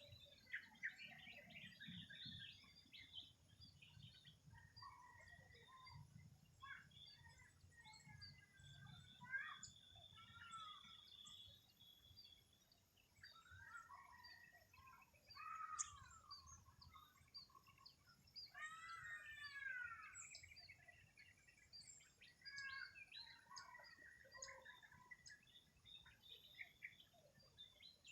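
Several birds calling and singing at once: a steady mix of quick chirps, whistled notes and sweeping calls, faint, over a low background rumble.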